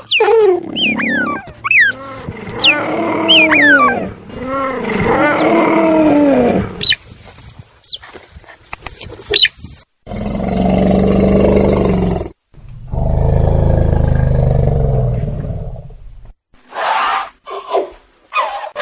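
Wild animal calls: a quick series of rising-and-falling pitched squeals, then two long, low, loud roars, then a few short calls near the end.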